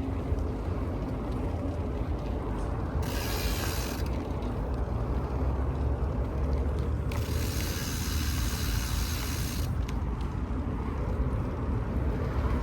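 BMX bike's rear hub ratchet ticking rapidly while the bike coasts, in two stretches: briefly about three seconds in, then from about seven to nearly ten seconds in. Under it runs a steady low rumble of rolling.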